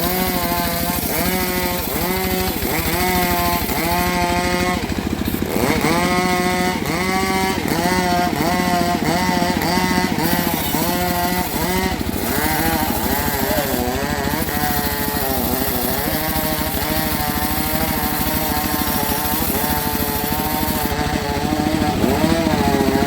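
A small petrol engine on a saw runs hard while cutting mahogany, its pitch dipping and recovering again and again, about one and a half to two times a second, as the cut loads it.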